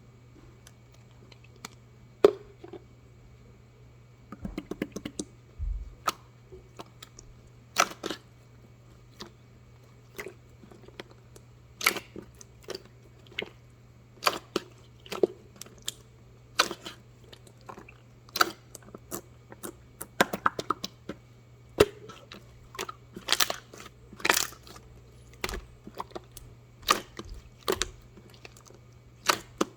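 Slime being played with by hand, making sharp irregular clicking and crackling pops. They are sparse at first and come thicker from about four seconds in.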